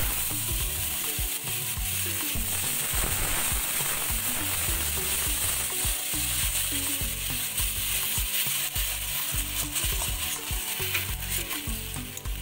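Wet ground vegetable-peel paste sizzling in hot mustard oil in a kadai. The sizzle jumps up as the paste drops in at the start, and a metal spatula scrapes and stirs it throughout.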